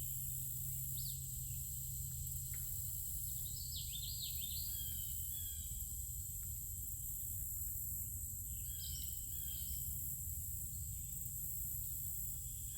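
Outdoor ambience: insects keep up a steady high-pitched drone while a bird sings short phrases of quick down-slurred notes, three times. A low steady rumble sits underneath.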